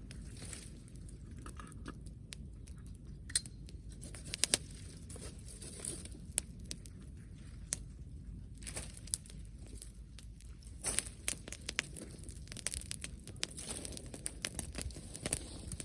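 Dry plant material crackling and snapping in irregular sharp pops over a steady low rumble, thickest about eleven to thirteen seconds in.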